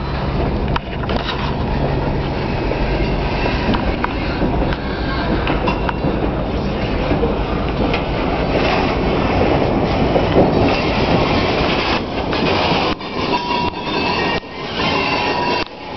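Freight train of steel hopper cars rolling past close by: a steady rumble and clatter of wheels over the rails. Near the end a thin, steady wheel squeal comes in.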